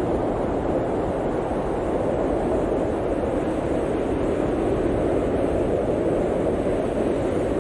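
Blizzard wind blowing steadily: an even, unbroken rush of noise with a low rumble beneath and no distinct gusts.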